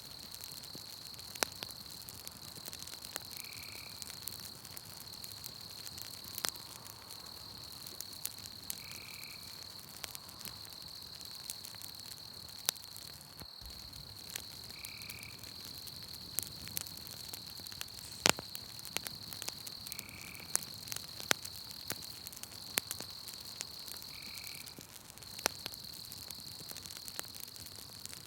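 Campfire crackling, with scattered sharp pops, over a steady high insect trill and a short call repeating about every five to six seconds.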